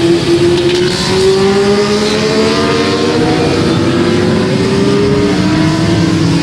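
Several racing motorcycles running hard on the circuit, their engine notes overlapping and slowly drifting up and down in pitch as they pass.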